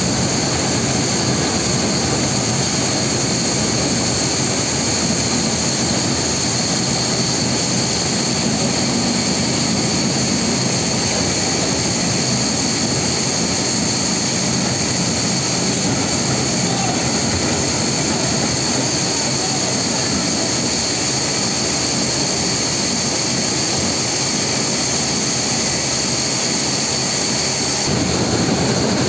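Machine for processing forest waste, such as a shredder or chipper, running steadily and loudly, with a constant high whine over a dense roar and a slight change in tone near the end.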